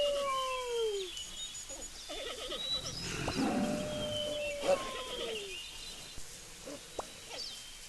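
Animal calls: two long calls that hold one pitch and then slide down, with birds chirping higher up.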